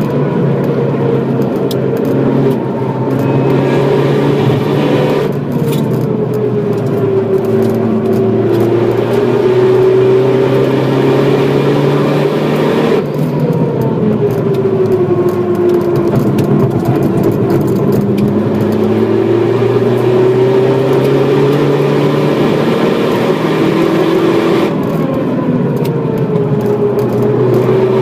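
Opel Astra H OPC's turbocharged 2.0-litre four-cylinder engine driven hard, its note falling and rising with road speed, with abrupt shifts about five, thirteen and twenty-five seconds in, over steady road and wind noise.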